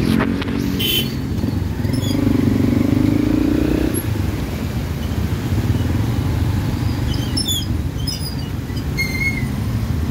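Motorcycle traffic heard from a moving bike: steady engine and road rumble. One engine's tone rises for a couple of seconds and drops away about four seconds in, and a few short high chirps come near the end.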